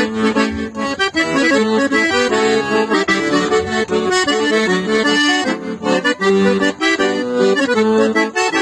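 Accordion playing an instrumental passage of a gaúcho song between sung verses, a quick run of melody notes over held chords.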